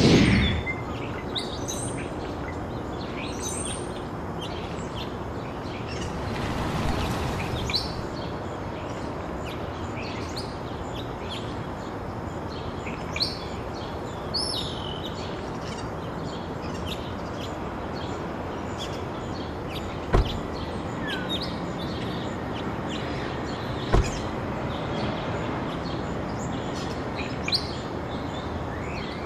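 Birds chirping over steady background noise, with a swell of noise about seven seconds in and two sharp knocks later on.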